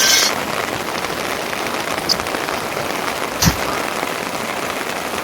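Steady rain falling, a dense patter throughout, with one sharp knock about three and a half seconds in.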